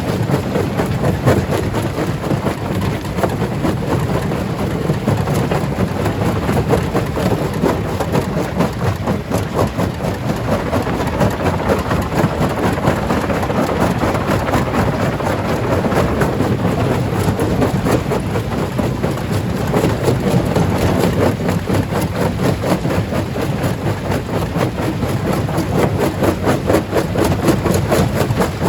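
Heavy stone-crushing machinery running steadily, a dense continuous rumble with a fast, fine rattle and no single loud impact.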